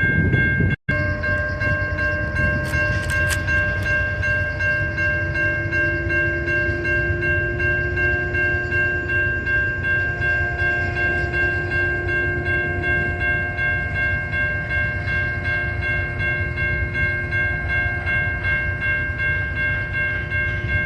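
A train passing: a continuous heavy rumble, with a steady high whine of several pitches at once held throughout. There is a brief dropout about a second in.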